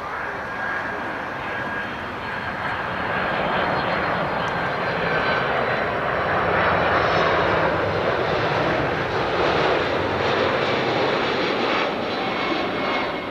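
Japan Airlines Boeing 767-300ER jet airliner passing with its engines running: a steady roar that builds to its loudest about halfway through and eases off slightly near the end, with a faint high whine over it.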